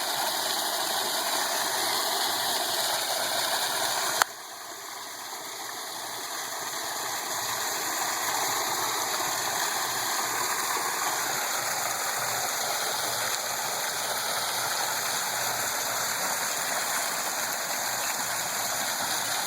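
Water running steadily down a stone backyard waterfall about 7.5 feet high, a continuous splashing rush. About four seconds in there is a click, after which the sound drops and slowly swells back to full over a few seconds.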